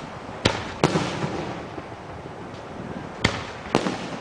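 Aerial firework shells bursting: four sharp bangs in two pairs, one pair near the start and one near the end, each trailing off into a fading echo.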